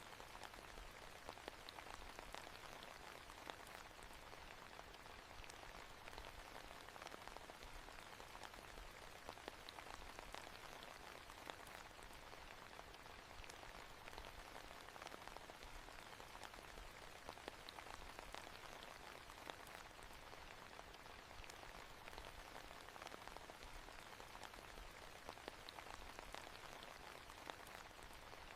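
Steady, quiet rain: a continuous patter with many small drops ticking.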